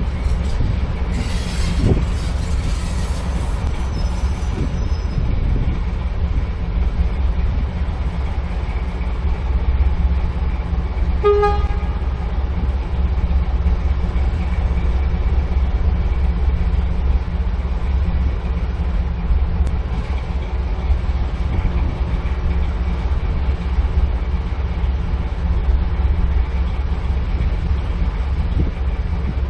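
Diesel shunting locomotive's engine running steadily, with a hiss for a few seconds near the start and one short horn toot about eleven seconds in.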